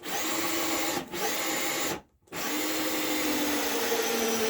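Power drill running in three bursts, likely driving screws into the boards: two short runs of about a second each, then a longer run of about two and a half seconds.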